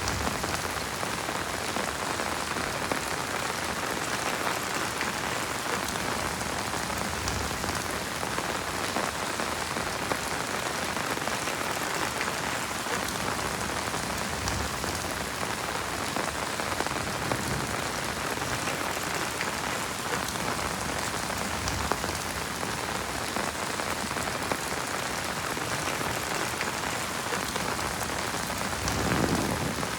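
Heavy rain falling steadily, an even hiss of many drops. A brief louder low sound comes about a second before the end.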